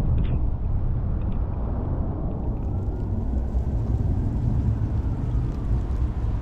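Steady rain with a deep, constant low rumble under it and a few light ticks of drops about the first half-second.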